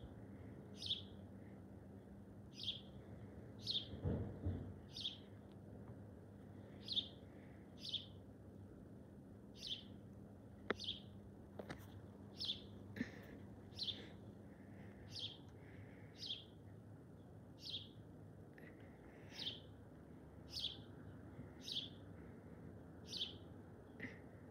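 A bird calling over and over: short, high chirps, each falling in pitch, repeated roughly once a second.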